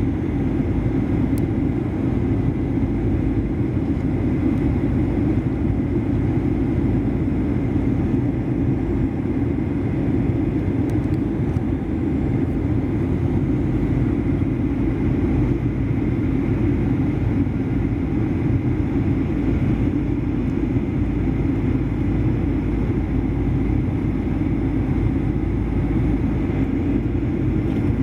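Steady drone of a Boeing 737-800's CFM56 jet engines and airflow heard inside the passenger cabin. It is an even, low rumble with a faint high whine, unchanging throughout.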